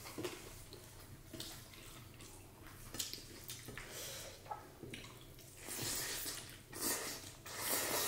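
Eating sounds close to the microphone: a series of short, wet mouth and food noises from a meal of rice and dal, coming more often and louder in the last few seconds.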